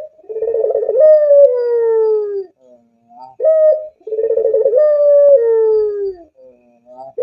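Puter pelung (Barbary dove) cooing: two long drawn-out coos, each opening with a wavering, trilled note and then sliding slowly downward, with short rising notes in the gaps between.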